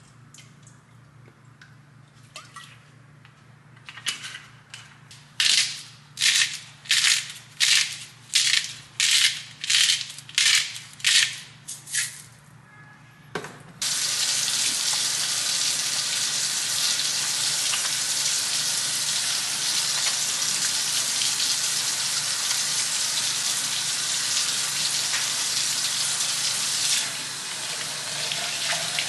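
A kitchen tap turned on about halfway through, then running steadily into a sink. Before that come about a dozen short swishing strokes, roughly two a second.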